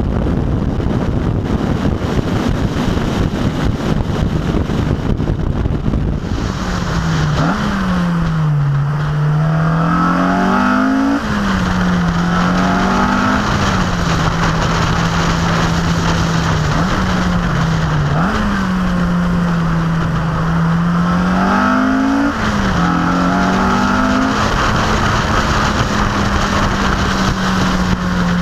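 Heavy wind rush over an outside-mounted camera on a fast-moving car. About six seconds in the car's engine comes through, accelerating through the gears with its pitch climbing and dropping at each upshift, holding steady for a few seconds, then pulling through more shifts before settling at a steady cruise near the end.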